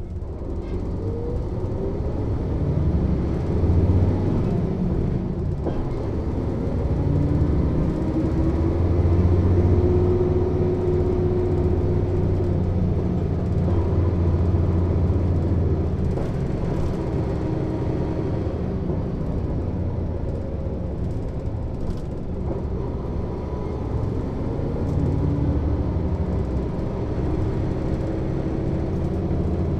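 Mercedes-Benz O 407 city bus's horizontal six-cylinder diesel engine running under way. Its pitch rises several times as the bus accelerates, dropping back in between.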